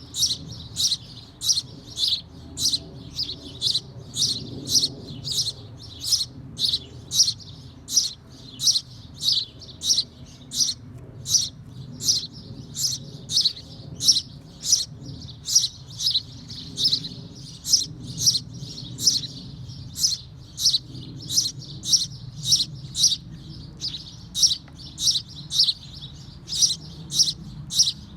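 A small bird chirping over and over in an even rhythm, about two short, sharp chirps a second.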